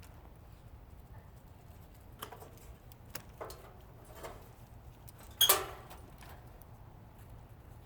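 Scattered metal clinks and knocks from tools and parts as a central air conditioning unit is taken apart for scrap, with one louder clank that rings briefly about five and a half seconds in, over a low steady hum.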